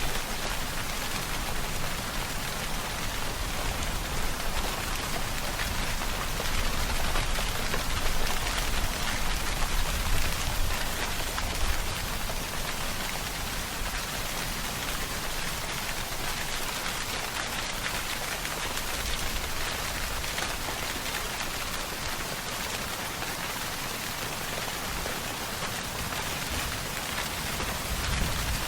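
Steady rain falling and pattering on a surface, an even hiss with a low rumble that swells a little about a third of the way in.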